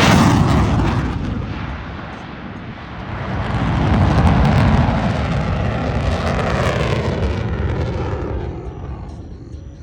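Aircraft flying past: a loud, deep rumbling engine noise that fades, swells again a few seconds in, then dies away near the end.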